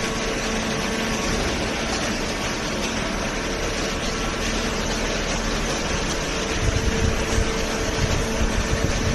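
Waste paper baler running: a steady machine hum over a noisy mechanical drone, as from its hydraulic pump unit. Uneven low rumbling joins in after about six and a half seconds.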